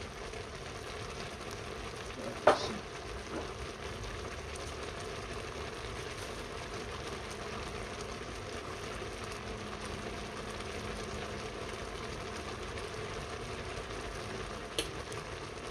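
Tomato stew frying in groundnut oil and a pot of beans cooking on the stove, making a steady sizzle. There is one sharp clink about two and a half seconds in, and a fainter one near the end.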